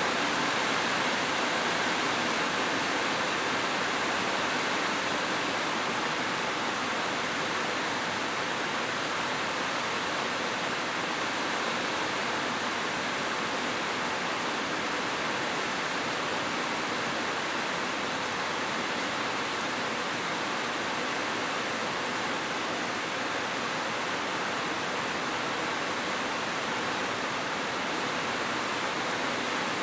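Heavy rain falling, a steady, even hiss with no pauses or separate drops standing out.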